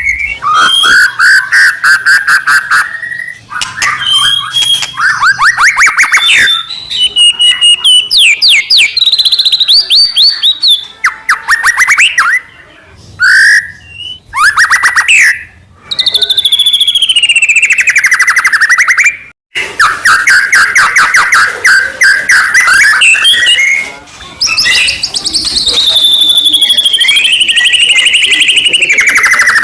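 White-rumped shama (murai batu) singing loudly and almost without pause: fast chattering trills alternate with clear whistles that slide up and down in pitch. There are short breaks, and one sudden brief silence about two-thirds of the way in.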